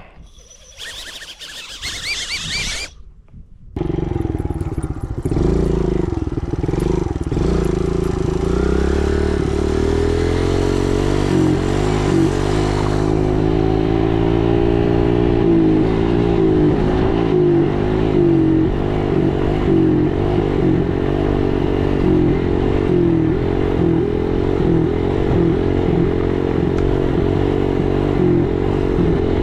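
Dirt bike engine running under way, its pitch rising and falling unevenly with the throttle after a steadier stretch. It comes in abruptly about four seconds in, after a brief high whine.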